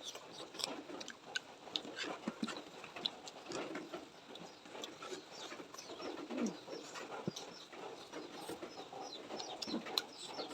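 Close-up eating sounds: chewing and lip smacks, with many short, sharp mouth clicks scattered throughout.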